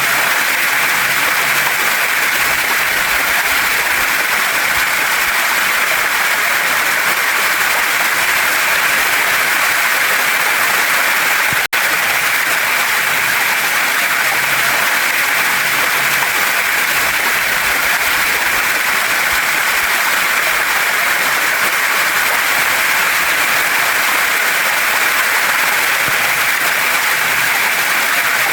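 Waterfall and mountain stream: water rushing steadily over rocks, a loud, even hiss. There is a split-second dropout a little under halfway through.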